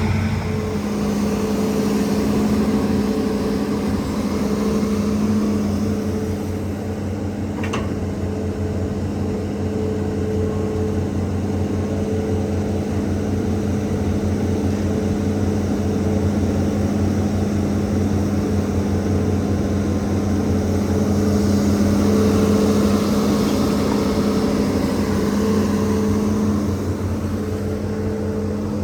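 Hitachi ZAXIS 200 excavator's diesel engine and hydraulics running steadily at working revs. The sound swells for a few seconds about three-quarters of the way through, and there is a single short click about eight seconds in.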